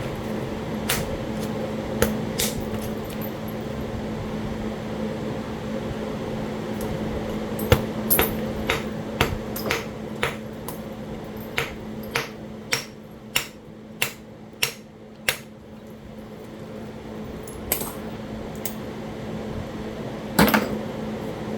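Sharp strikes of a percussor on a Talahata quartzite biface: scattered single hits, then a run of evenly spaced taps about two a second, and a louder strike near the end. A fan hums steadily underneath.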